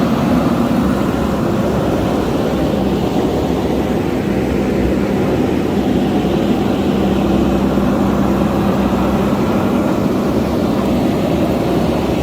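JCB backhoe loader's diesel engine running steadily, a continuous low drone with no clear change in pitch.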